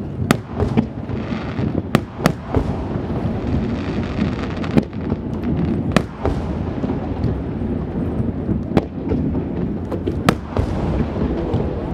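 Aerial firework shells bursting: about eight sharp bangs at irregular intervals of one to three seconds, over a continuous rumble and crackle of the display.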